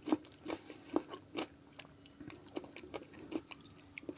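Close-up chewing of a mouthful of okroshka: soft wet mouth clicks and small crunches coming irregularly, a few times a second.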